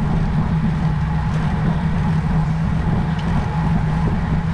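Steady wind and road rumble while riding a road bike, a continuous low hum with no breaks.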